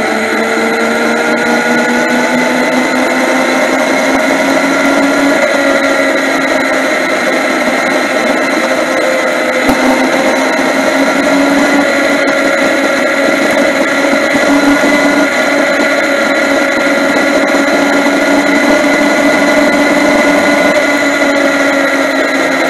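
Yamaha MT-09's inline three-cylinder engine running steadily at cruising speed, with road and wind noise, heard through a camera mounted on the motorcycle. Its pitch rises slightly over the first few seconds, then holds fairly even.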